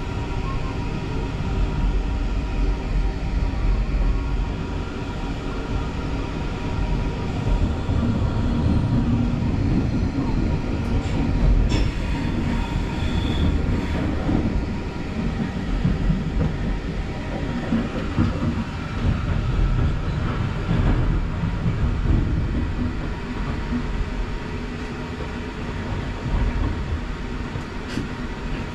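Running noise inside an ÖBB Nightjet sleeper carriage as the train pulls out of the station: a steady low rumble of wheels on rail, with a few sharp clicks.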